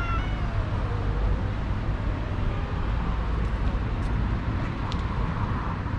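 Steady low rumble of city traffic, with a cat's short cry right at the start and a couple of faint clicks about four and five seconds in.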